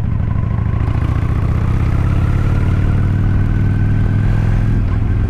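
Vehicle engine running steadily, with a whine that rises slowly in pitch as the vehicle speeds up and then drops away near the end.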